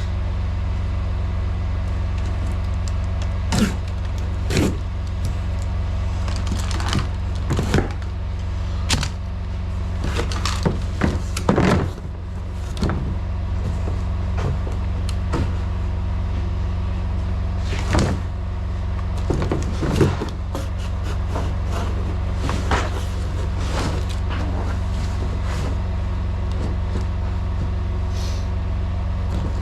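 Semi truck's diesel engine idling with a steady low drone, with scattered knocks and clunks of parts being handled throughout, a cluster about a third of the way in and again past the middle.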